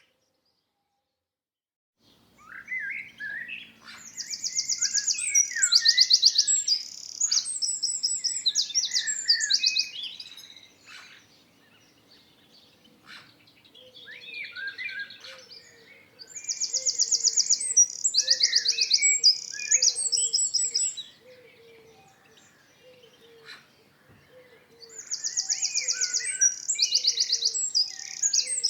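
Songbird singing in repeated bouts of a few seconds each, mixing rapid high trills with lower warbled phrases, after about two seconds of silence at the start. A faint, low, repeated note runs underneath from about halfway through.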